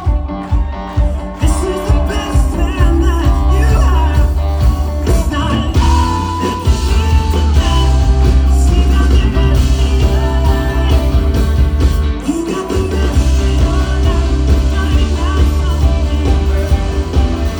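Rock band playing live with a singer over guitar, drums and a heavy bass line; the bass drops out briefly about twelve seconds in.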